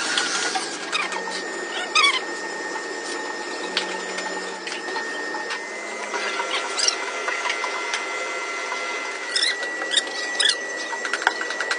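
Machinery running with a steady whine, with scattered sharp clicks and repeated short squeaks.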